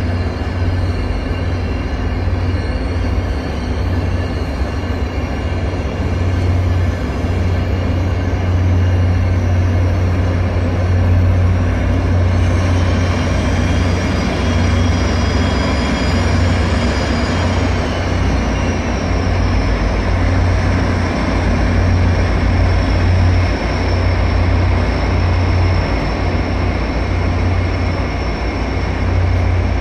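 MBTA commuter train rolling past, bilevel coaches first and then its diesel locomotive, with a steady low hum from the running engine. A high whine bends up and down in the middle as the locomotive goes by, then holds as one steady high tone.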